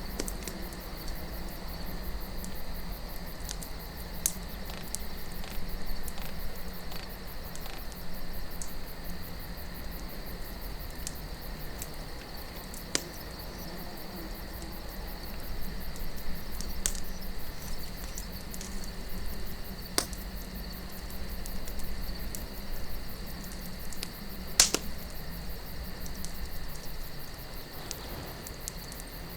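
Campfire crackling, with scattered sharp pops, one louder pop late on. Under it a steady chirring of crickets and a low wind rumble.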